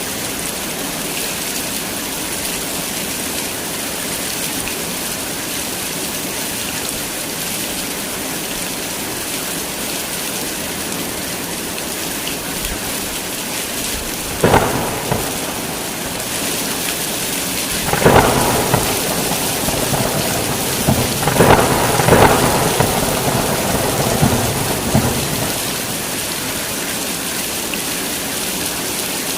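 Heavy rain falling steadily in a thunderstorm. About halfway through a sharp thunderclap cracks, and a few seconds later a longer stretch of thunder rumbles with several cracks before dying back to the rain.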